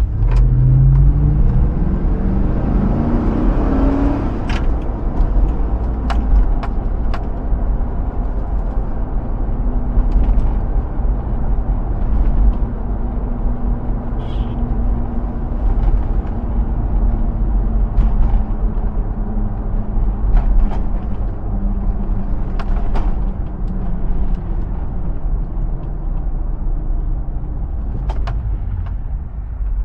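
Hummer H2's 6.0-litre V8 under hard acceleration. The revs climb for about four seconds and drop at an upshift, then the engine holds a steady drone over heavy road rumble, with a few faint clicks. The engine eases off near the end.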